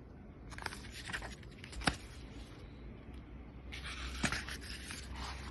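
Paper rustling as the pages of a picture book are handled and turned, in two bouts, each with a sharp tap or click.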